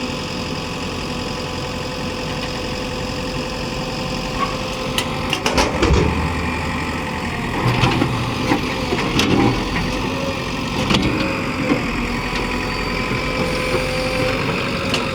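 Engine running steadily, then surging from about five seconds in amid sharp metal knocks and clanks, as it pulls an overturned tractor trolley upright.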